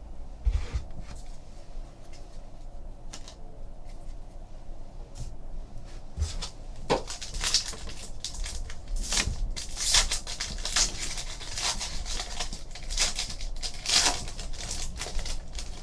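Foil trading card pack being torn open and its cards handled, a run of sharp crinkles and rustles that grows busier about halfway through.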